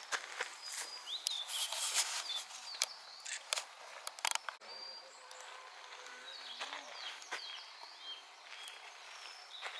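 Small birds chirping in short rising and falling calls, over irregular sharp crunching clicks that are densest in the first half, likely footsteps on a path.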